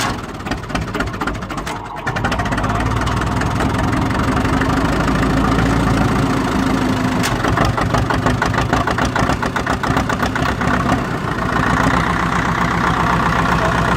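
1956 International TD6 crawler dozer's gas-start diesel engine running while still cold and warming up, with an even firing beat. The sound dips briefly near the start and turns brighter near the end.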